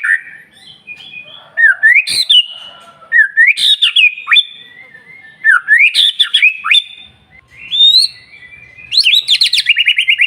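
White-rumped shama singing: loud whistled phrases of rising and falling notes, separated by short pauses. About nine seconds in it breaks into a fast trill of rapidly repeated falling notes.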